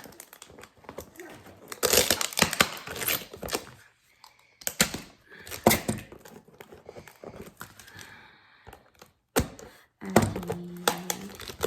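A shipping package being torn open by hand: irregular ripping and crinkling of cardboard and packing, with sharp knocks, heaviest about two to three seconds in.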